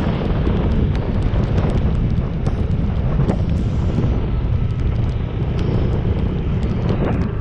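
Wind buffeting the microphone on a moving motorcycle: a loud, steady low rumble of rushing air.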